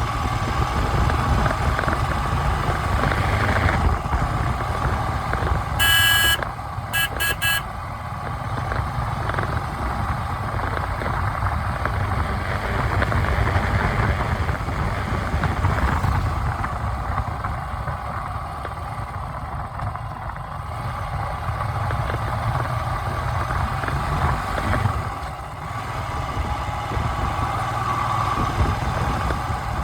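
Motor vehicle engine and road noise running steadily. About six seconds in, a horn honks once, then gives a few quick short toots.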